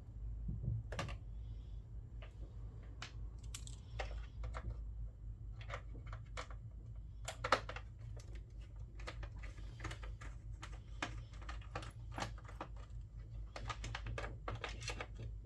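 Scattered small clicks and taps of screws and plastic and metal parts of a PlayStation 3 console being handled, one louder knock about halfway through, over a steady low hum.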